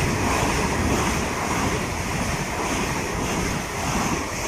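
Great Western Railway Class 387 electric multiple unit passing through the station: a loud, steady rush of wheels on rail and air.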